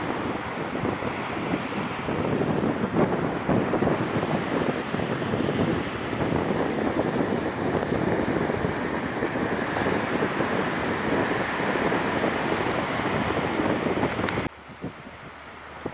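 Wind buffeting the microphone over the rush of surf, loud and gusty, cutting off suddenly near the end.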